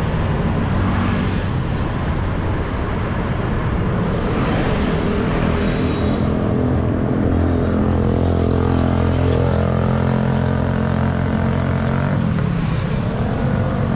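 City street traffic heard from a bicycle: motorbike and vehicle engines running steadily, with one engine's hum strongest about halfway through, its pitch dropping as it goes by.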